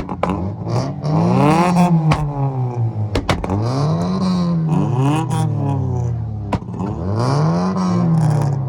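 Car engine revved hard again and again, its pitch climbing and falling about three times, with a few sharp cracks between the revs.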